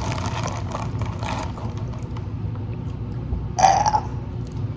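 Quiet eating noises over a low steady hum, with one short burp about three and a half seconds in.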